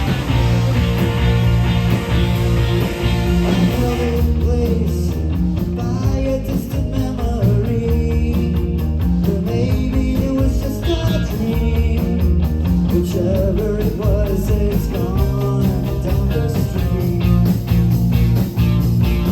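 Rock music with electric guitars, drums and singing.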